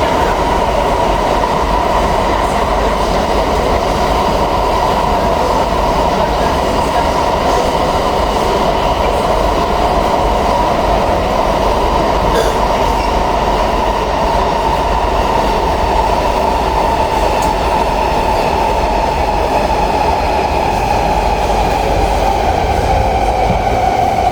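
Interior sound of an SMRT C151B metro train running between stations: a steady traction-motor whine over rumbling wheel and rail noise. The whine falls in pitch over the last few seconds as the train begins to slow.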